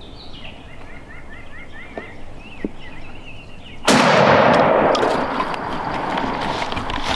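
A quick run of short high chirping calls, then about four seconds in a single shotgun blast fired at a gobbler, its report echoing away over several seconds.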